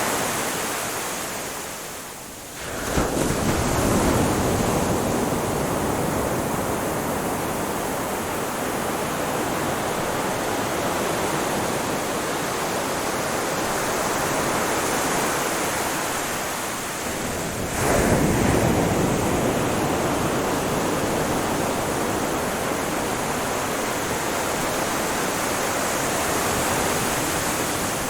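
Ocean waves washing on a shore: a steady wash of surf, with a wave breaking about three seconds in and another a little past the middle.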